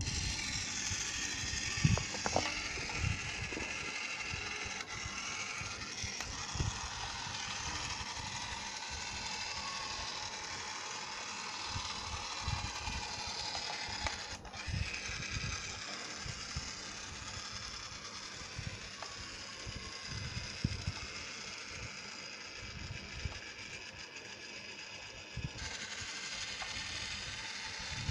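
Small electric motor of a toy speedboat running with a steady high whir, with irregular low knocks and bumps underneath.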